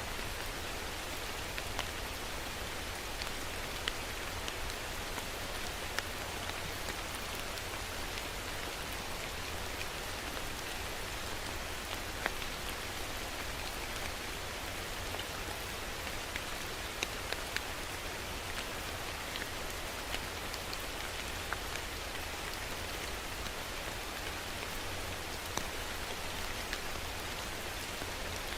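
Steady rain falling on a surface, a constant hiss with many scattered drop ticks and a few louder individual drops.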